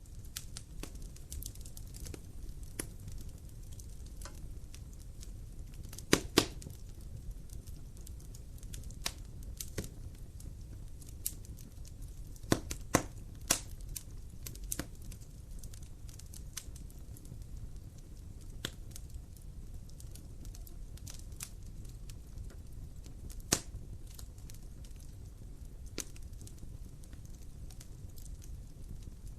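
Fire crackling in a fireplace: a steady low rumble with scattered sharp pops, the loudest a pair about six seconds in and a cluster around thirteen seconds in.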